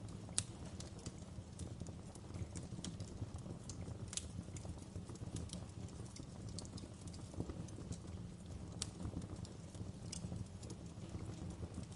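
Fire in a fireplace crackling: irregular sharp pops and clicks over a low steady rumble of the flames, with one louder pop about half a second in.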